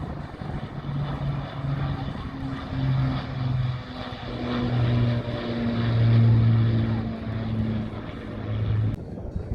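Propeller-driven aircraft flying past with a steady engine drone that swells to its loudest about six seconds in and then cuts off abruptly near the end.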